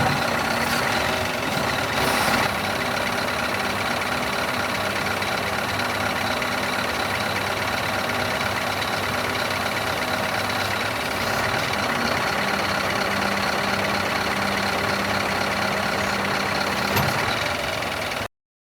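Scania R500 truck's diesel engine running steadily at idle. A steady low hum joins about twelve seconds in, and the sound cuts off suddenly near the end.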